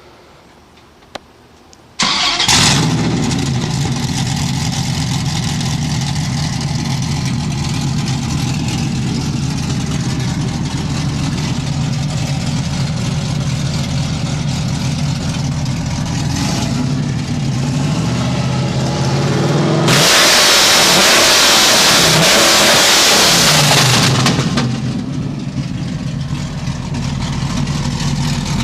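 Dodge Ram SRT-10's 8.3-litre V10 on an exhaust with no mufflers, starting suddenly about two seconds in and idling with a lumpy, deep tone. About twenty seconds in it is revved hard for some four seconds, so loud that the recording distorts into a harsh noise, then it drops back to idle.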